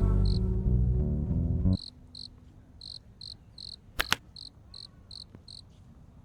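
Background music cuts off abruptly a couple of seconds in, leaving a cricket chirping steadily, about two to three high chirps a second. Two sharp clicks come in quick succession a little past the middle.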